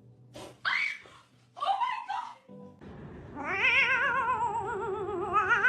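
A cat meowing twice in short calls, then one long wavering yowl lasting about three seconds.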